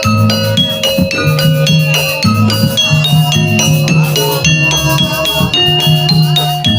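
Jaranan gamelan music: metal keyed percussion strikes short pitched notes in a quick, regular rhythm over steady low tones.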